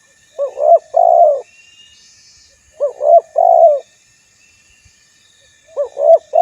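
Male spotted dove cooing its call of two short notes followed by a longer drawn-out one, repeated about every two and a half seconds. This is the loud male call used to challenge rivals. Faint high chirps sit behind it.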